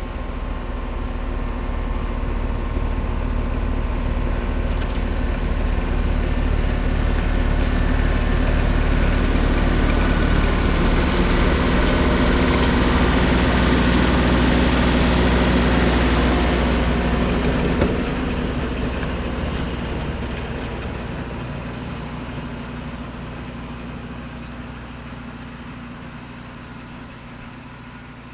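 Tractor engine running a snowblower, growing louder as it comes closer and loudest about halfway through, then fading as it moves away. One sharp click comes near the two-thirds mark.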